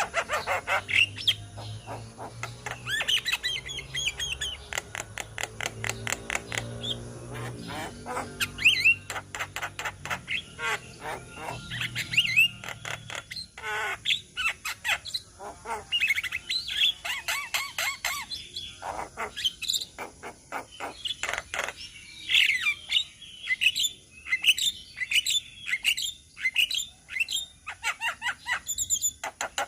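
A group of Javan mynas chattering and calling together: a dense run of rapid overlapping whistles, clicks and harsh notes. A faint low hum sits underneath for the first half and fades about halfway through.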